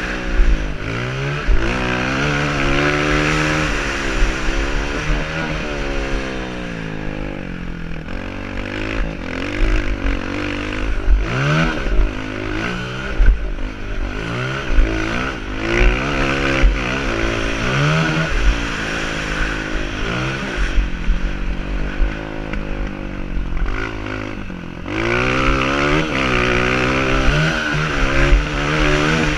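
Honda CRF230 single-cylinder four-stroke dirt bike engine heard close from onboard, revving up and dropping back again and again as the rider accelerates and shuts off around a motocross track.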